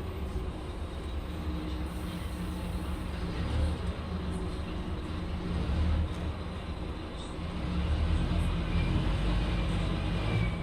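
Scania K310UB city bus engine running under way, a steady low drone with road noise that swells and eases a few times as the bus drives.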